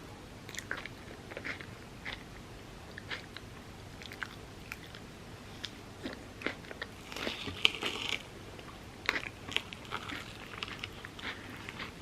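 Close-miked eating of chocolate-topped Biscoff overnight oats: scattered crisp crunching bites and chewing, with a denser run of crunching about seven seconds in.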